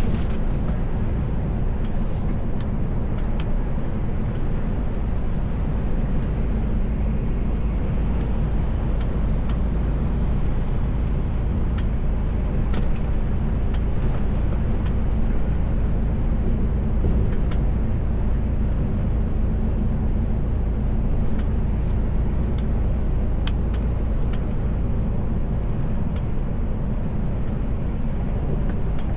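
Mercedes-Benz Actros L truck under way, heard from the driver's seat: a steady low engine drone and road noise, with a few faint clicks scattered through it.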